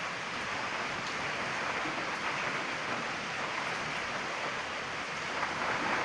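Heavy rain falling and pattering steadily, an even hiss of rain on surfaces with no thunder.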